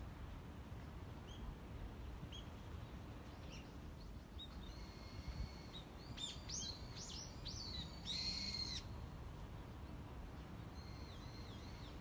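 Small songbirds singing and calling: scattered short high notes, a quick run of varied whistled notes about halfway, and the loudest, fuller call about eight seconds in, with faint repeated notes near the end. A low rumble underneath.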